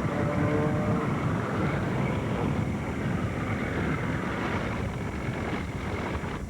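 A small motorboat's engine running steadily, with wind buffeting the microphone.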